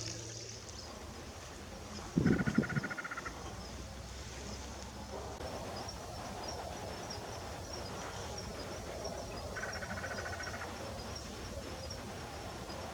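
A bird gives a rapid, even trill of fast-repeated notes, twice, each about a second long, with a brief low thump at the first trill. A faint, steady high ticking, like insects, runs underneath.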